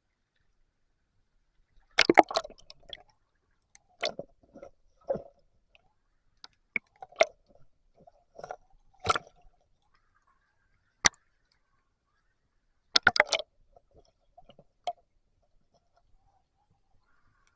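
Rubber boots squelching and sloshing in shallow river water, in short irregular bursts a second or two apart, the loudest about two seconds in and again near thirteen seconds.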